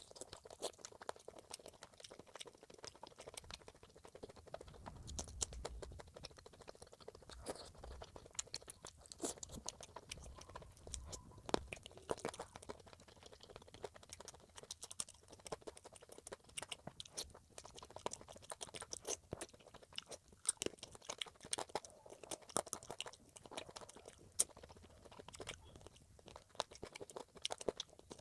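Close-miked chewing and mouth sounds of someone eating, with frequent small, irregular crunches and wet clicks.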